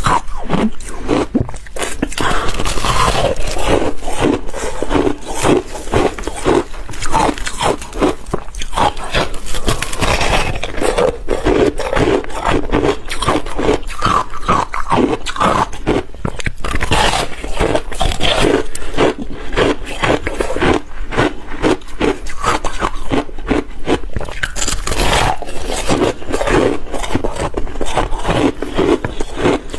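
Close-miked biting and chewing of ice made with passion fruit. Dense, irregular crunches and cracks follow one another without pause.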